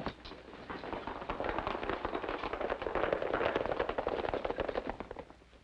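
Hoofbeats of a troop of cavalry horses galloping off, a dense clatter that swells to its loudest in the middle and fades away near the end.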